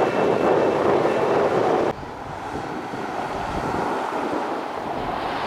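Airbus A320neo jet engine noise, loud and steady, that cuts off abruptly about two seconds in. A quieter rushing noise follows, with wind buffeting the microphone.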